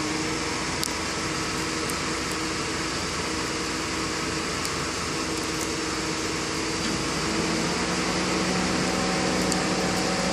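Steady machine whirring and hiss, like a fan or air-conditioning unit, with a hum whose pitch drops to a lower tone about seven seconds in.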